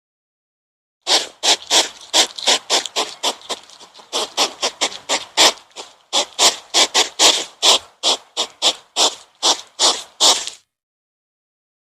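An animal calling over and over: short, noisy calls at about three to four a second, starting about a second in and stopping shortly before the end.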